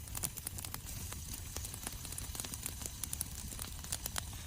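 Thick-cut bacon sizzling in a cast iron skillet over hot coals, with a steady run of sharp crackles and pops.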